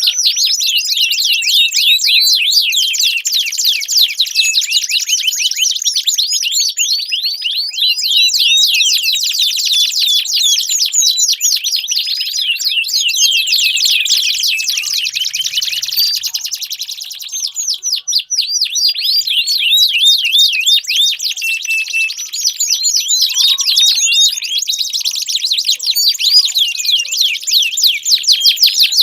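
Domestic canary song: long, unbroken runs of very fast, high-pitched rolling trills and chirps, with a short lull about 17 seconds in.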